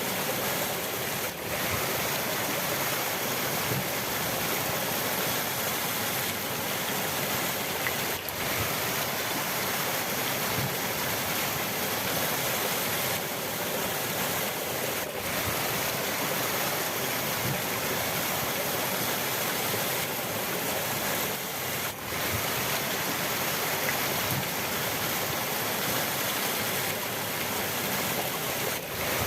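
River water rushing steadily, an even wash of noise that briefly dips in level about every seven seconds.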